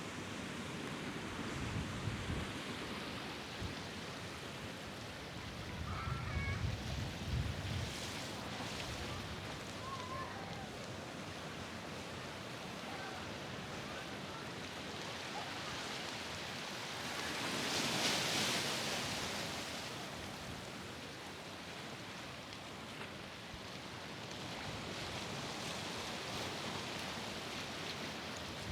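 Sea waves washing against the shore in a steady rush, with one louder wash about two-thirds of the way through. Gusts of wind bump the microphone now and then, and there are a few faint short chirps.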